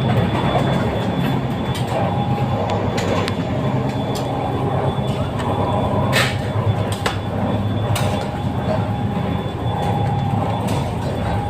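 Moving passenger train heard from inside a coach: a steady low rumble of running wheels with scattered sharp clicks and knocks.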